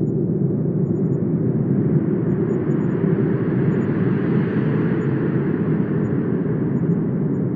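Wind blowing steadily with a deep rumble, a gust swelling and easing off about halfway through.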